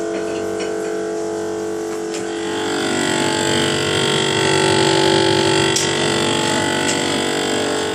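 General Electric refrigerator's evaporator fan motor running with a loud, steady rattling buzz that grows louder around the middle. The owner takes this rattle for the sign of a failing evaporator fan motor.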